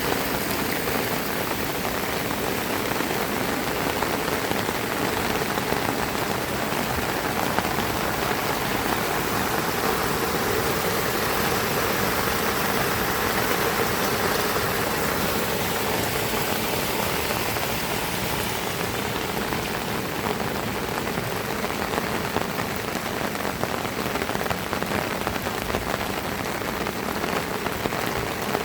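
Heavy rain falling steadily, a dense, even hiss of rain hitting surfaces.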